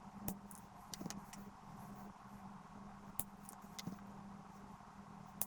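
Scattered small clicks and taps of tools and parts being handled on an electronics workbench, over a faint steady hum.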